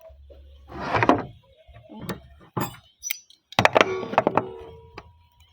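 Thuds, scraping and knocks from a roofing sheet being handled and set in place: a scraping burst about a second in, then a cluster of knocks with a brief ring a little before the end.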